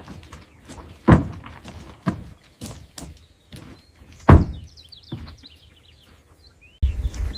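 A series of irregular sharp knocks and thumps, the loudest about a second in and just past four seconds, with faint high chirps between them about halfway through. Near the end a different, busier sound cuts in abruptly.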